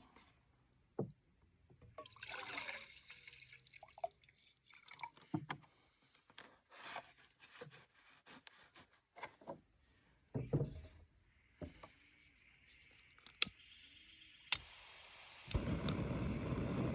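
Camp gear being handled for making coffee: scattered clicks, knocks and rustles, then a sharp click and a steady rushing hiss that starts near the end and keeps going.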